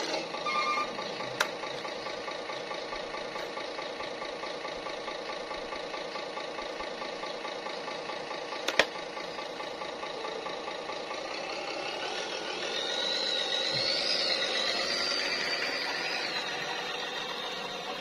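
Simulated truck diesel engine idling from an RC truck's sound unit, steady and pulsing. From about twelve seconds in it swells louder with a wavering high whine, then settles back. A sharp click comes about nine seconds in.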